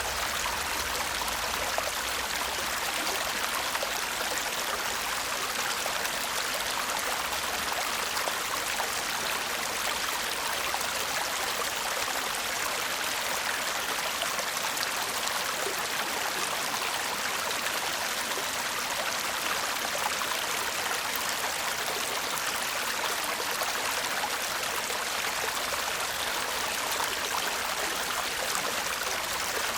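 A small stream babbling steadily, an even rush of running water heavy in the higher pitches and light in the low end.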